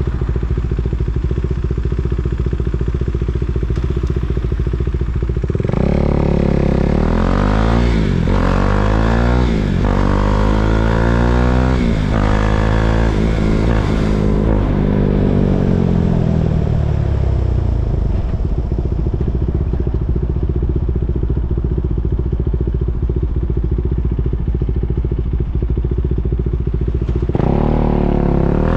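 KTM 390 Duke's single-cylinder four-stroke engine idling, then pulling away about six seconds in and revving up through a few quick gear changes. It rolls off and drops back to idle, then pulls away again near the end.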